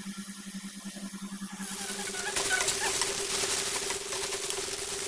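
A spoon stirring onions and spices frying in a steel pan, then a sudden louder hiss about a second and a half in as poha (flattened rice) goes into the pan. After that come quick scraping clicks of the spoon mixing it. A steady low hum runs underneath.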